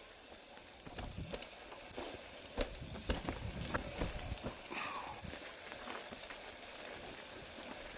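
Irregular crunches and knocks of movement over a snowy mountain trail, uneven in loudness and with no steady rhythm.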